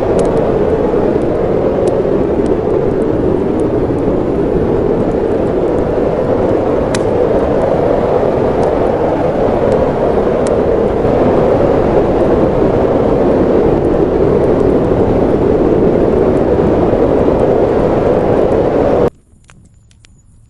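Snowstorm wind blowing steadily, with scattered sharp crackles from a wood fire. The wind cuts off suddenly about a second and a half before the end, leaving faint crackling.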